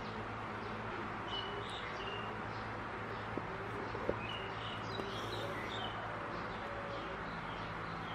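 Birds chirping in short repeated calls in the background over a steady low hum, with a few faint ticks near the middle.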